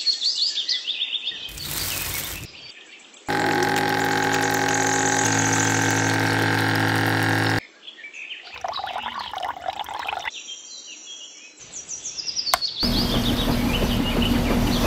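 Birds chirping in short descending trills, broken by cut-in sounds. A brief gritty pour comes early on. A steady hum of many tones runs for about four seconds in the middle and stops abruptly. A steady rumbling noise with a low hum starts about two seconds before the end.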